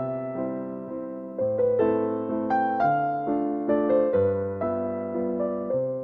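Background music: a slow, gentle piano piece of single notes and soft chords, each struck and left to fade.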